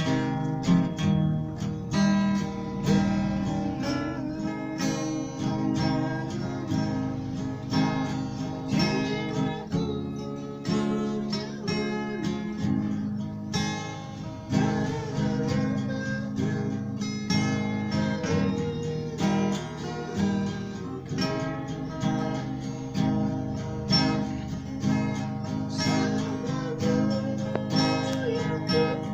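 Acoustic guitar strummed and plucked in a steady rhythm, playing a song.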